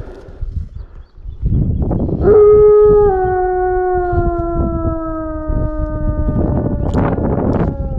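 A canine howling: one long call about two seconds in, held for several seconds and sliding slowly down in pitch, over rustling and knocking from movement.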